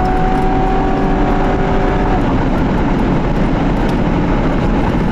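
Loud, steady rumble of a moving vehicle, with road and wind noise. A faint steady hum fades out about two seconds in.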